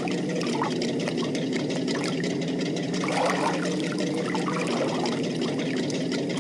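Water flowing and gurgling steadily, with small bubbling splashes throughout.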